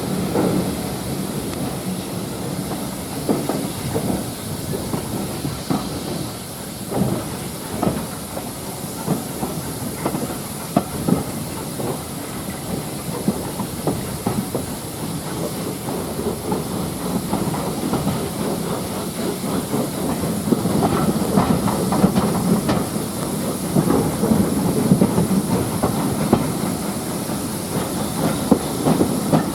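Steam-hauled train running on the line: the wheels click and knock irregularly over the track, over a steady hiss of steam and a low rumble that grows louder in the last third.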